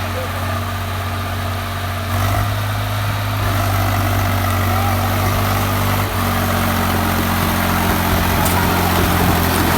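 Swaraj 834 XM tractor's three-cylinder diesel engine running steadily. It gets louder about two seconds in and its pitch shifts slightly around six seconds in.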